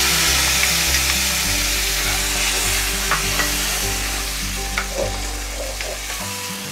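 Wet tomato, green chilli and ginger paste sizzling in hot oil in a nonstick kadhai, stirred with a steel spoon that scrapes and clicks against the pan a few times. The sizzle slowly dies down as the paste settles into the oil.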